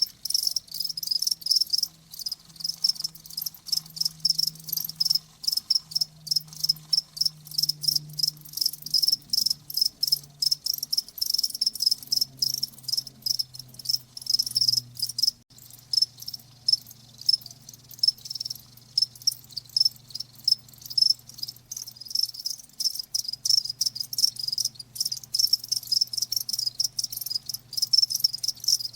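Crickets chirping: a steady chorus of rapid, high-pitched chirps repeating many times a second, with a faint low hum beneath.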